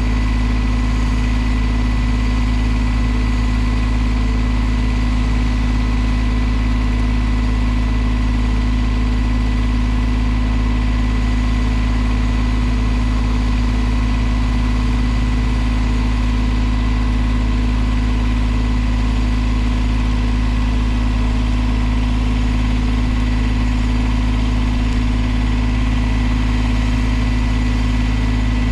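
An engine running steadily at a constant idle, with no change in speed.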